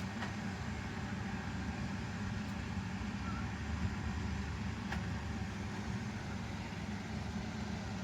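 Robot vacuums running at once: a steady low motor and brush hum.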